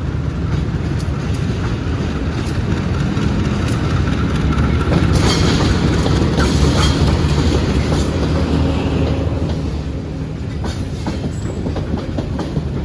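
Train running on the rails, its wheels clacking over rail joints over a steady low rumble that grows loudest midway and then eases off.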